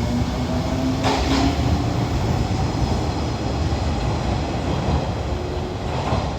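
Train running on rails: a steady low rumble with a faint tone gliding slightly upward early on, and a couple of clicks, about a second in and near the end.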